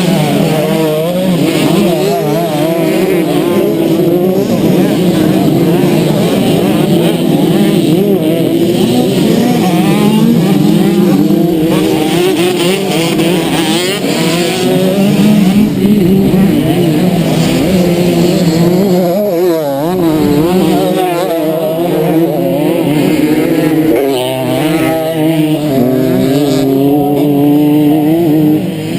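Motocross bike engine revving hard as it is ridden, its pitch rising and falling constantly with throttle and gear changes.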